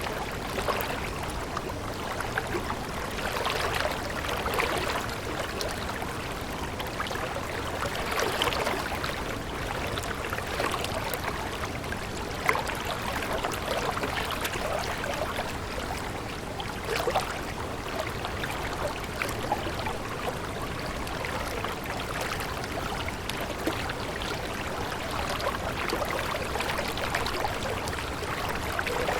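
Water of a stream running steadily, a continuous babble.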